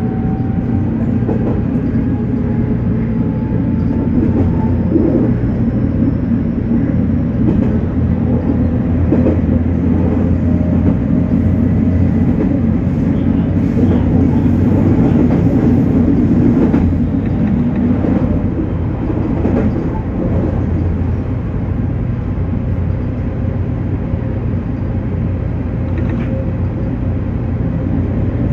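JR Kyushu 813 series electric train running on the line: a steady rumble of wheels on rail under a thin motor whine that rises a little in pitch over the first few seconds. Occasional short clicks come over the rail joints.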